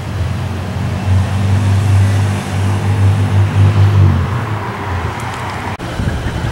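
A vehicle engine running. It swells in loudness over a few seconds, then fades.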